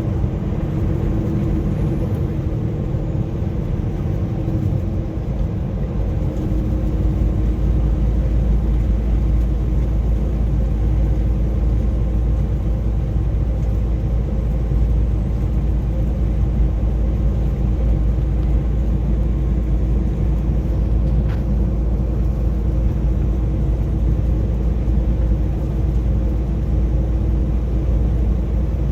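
Semi truck engine and road noise heard from inside the cab: a steady drone under load, pulling up a steep grade. A deep low rumble grows stronger about six seconds in.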